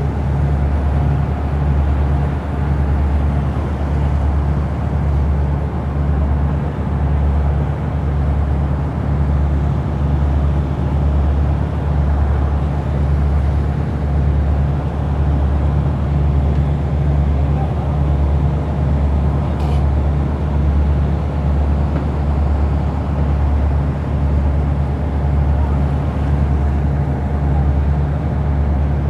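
Diesel engine of a wooden Amazon river passenger boat running steadily at cruising speed, a deep drone with an even throb.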